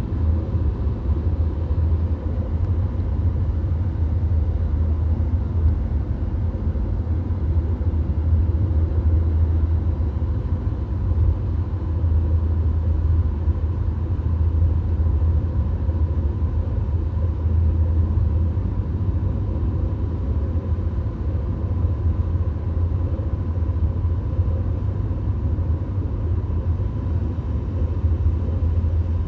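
Steady low road and engine rumble heard from inside the cabin of a VW Golf cruising at motorway speed, with a faint steady whine above it.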